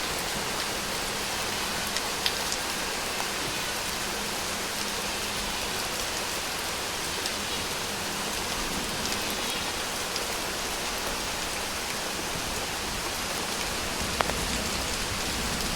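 Steady rain falling, an even hiss with a few sharp ticks, about two seconds in and again near the end.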